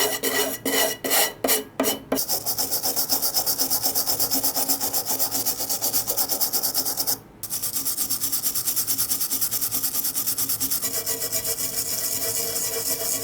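Scraping strokes on a corroded brass box, like filing or hard brushing. There are a few separate strokes at first, then a fast, even run of strokes with a brief pause about seven seconds in.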